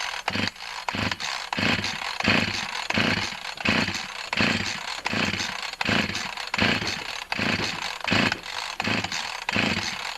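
Husqvarna 346xp chainsaw's recoil starter pulled over and over, about fifteen pulls in a steady rhythm, cranking the engine with the spark plug out and a compression gauge fitted. It turns over easily: the piston is scored and the compression reads only about 140 psi, below the usual 150-plus.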